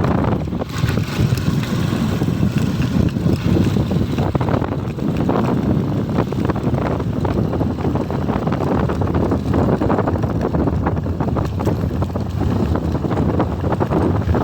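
Wind buffeting the microphone of a camera on a moving motorcycle: a loud, low rush that flutters unevenly, without a clear engine note.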